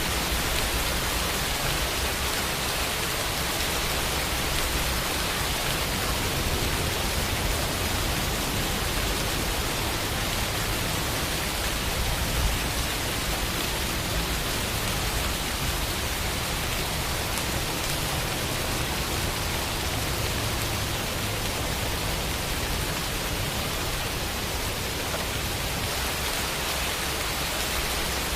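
Steady rain falling, a dense even hiss of drops with no other sounds.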